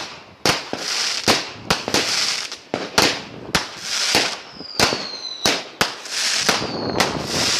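Fireworks going off in quick succession, about two sharp bangs a second with hissing between them. A couple of falling whistles come in the second half.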